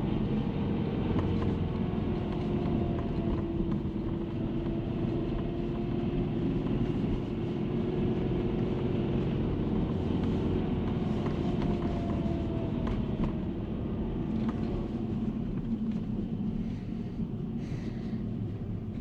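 Subaru Legacy BP5's EJ20 flat-four engine running at a steady speed, an even hum with faint ticks over it. The owner hears a rattle of unknown cause from the engine bay that comes in as revs rise toward about 3500 rpm.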